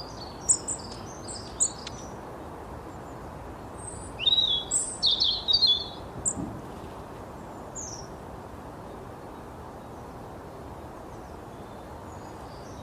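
Sparrow chirping: a few short high chirps in the first two seconds, a quick run of chirps between about four and six seconds in, then a couple more, over a steady background hiss.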